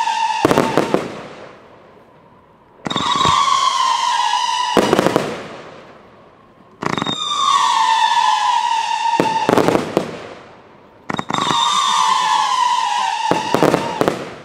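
Evolution Fireworks Kingsmen cake firing in a repeating cycle: a whistle, steady and slightly falling in pitch, lasts about two seconds and ends in a quick cluster of sharp bangs as the shells burst. This comes four times, about every four seconds.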